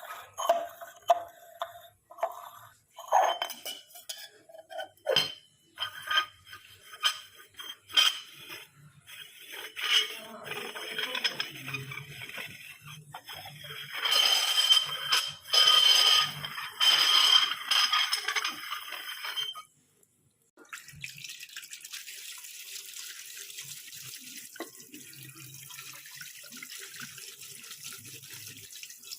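Dishes and metal utensils clinking and knocking in a sink, with water splashing over them. After a brief break about twenty seconds in, a tap runs steadily.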